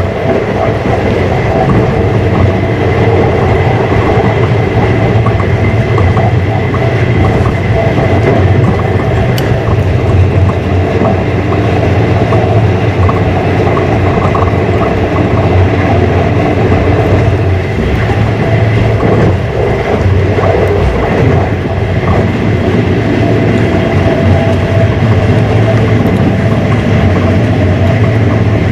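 Passenger train running along the track, heard from inside the carriage: a steady rumble of wheels on the rails, with a thin steady high whine above it.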